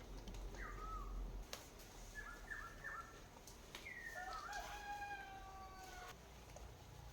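A rooster crowing once, a long call that starts about four seconds in and lasts about two seconds, after a few short calls.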